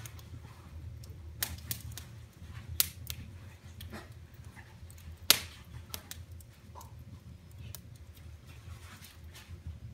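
Wood fire crackling in a fireplace: scattered sharp pops and snaps, the loudest about five seconds in, over a steady low rumble.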